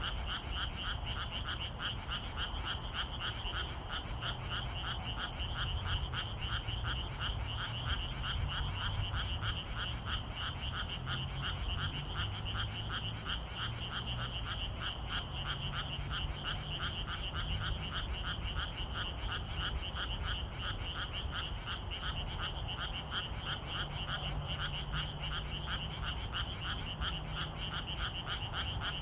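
A chorus of many frogs calling at once in a dense, continuous pulsing din, with a steady low rumble underneath.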